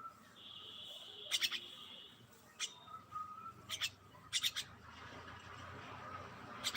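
Birds calling: short sharp chip notes in quick clusters of two to four, with a high, steady trill lasting about two seconds near the start.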